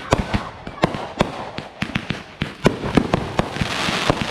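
Fireworks display going off: an irregular run of sharp bangs, a few a second, with a burst of crackling near the end.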